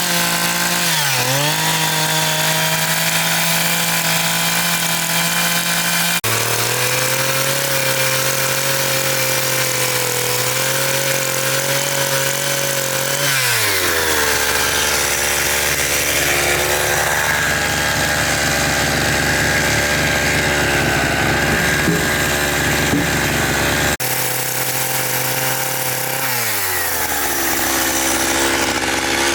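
A motor-driven power tool running steadily, its pitch dropping sharply about a second in, about halfway through and near the end as it takes load, with abrupt changes in pitch at two cuts.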